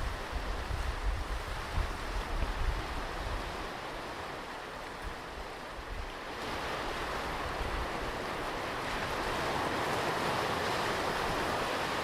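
Ocean surf washing on a beach, with wind buffeting the microphone in the first few seconds. About six seconds in, the surf hiss swells and stays louder as a wave comes in.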